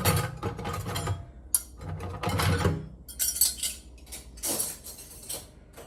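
Metal cutlery and dishes clinking and clattering as they are handled and dropped together, in a run of uneven clanks.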